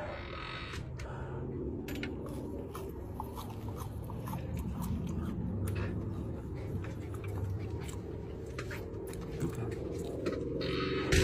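Chewing and biting sounds of a person eating a sauced chicken wing, with scattered small clicks over a steady low background noise, and a sharp knock near the end.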